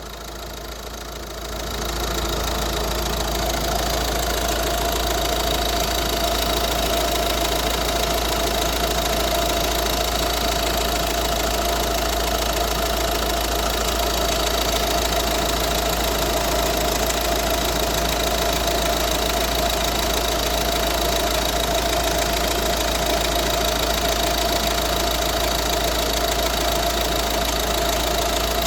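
Peugeot 508 engine idling steadily, with a constant whine over the running. It grows louder over the first couple of seconds, then holds level.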